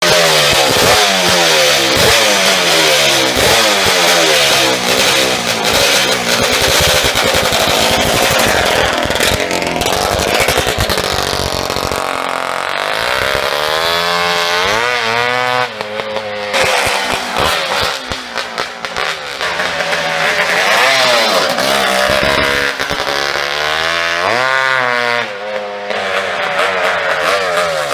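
Yamaha YZ490 two-stroke single-cylinder engine in a YSR50 mini-bike frame, running and being revved hard over and over, its pitch climbing and dropping repeatedly.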